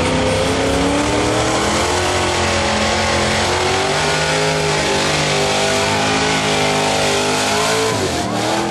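A pulling truck's engine at high revs under full load, its pitch wavering up and down. Near the end the revs drop sharply as the throttle comes off.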